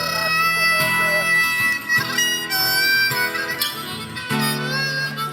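Live music in an instrumental break between sung verses: a melody of long held notes over a steady low accompaniment.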